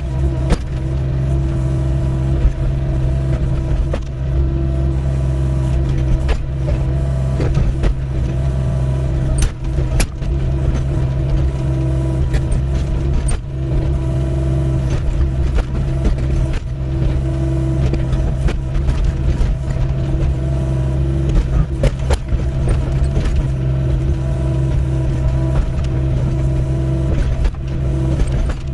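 Doosan 55W excavator's diesel engine running steadily under digging load, with irregular sharp clanks and knocks from the bucket working through stony ground.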